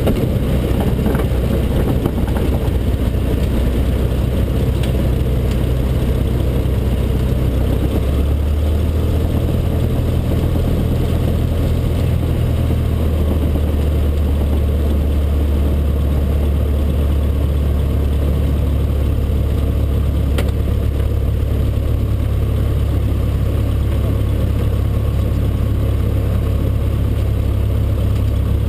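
Cessna 152's four-cylinder Lycoming engine and propeller running steadily, with the engine note shifting to a new pitch about 8 seconds in and again about 13 seconds in.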